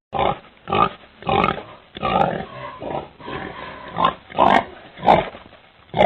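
Pig grunting over and over in short, rough calls, about eight in a row.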